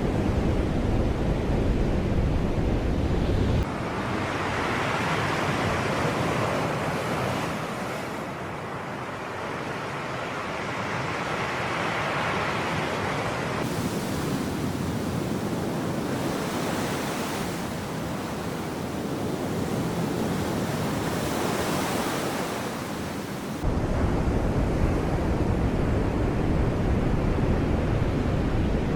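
Sea waves washing ashore, the surf swelling and falling back every few seconds. A low wind rumble on the microphone covers the first few seconds and returns abruptly for about the last five.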